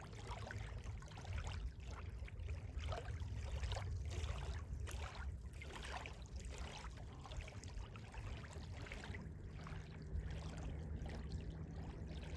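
River water running steadily, with a low rumble underneath and irregular light crackles.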